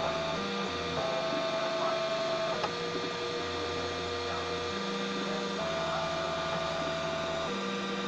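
3D printer's stepper motors running, whining at steady pitches that switch every second or so as the print head's moves change.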